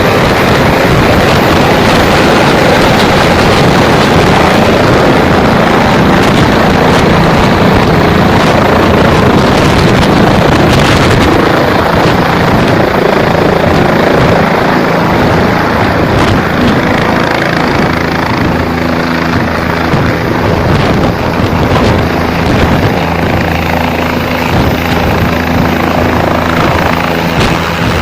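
Helicopter running close by, a loud steady din of rotor and engine. About halfway through the hissing upper part fades and a steadier low drone with a hum remains, a little quieter.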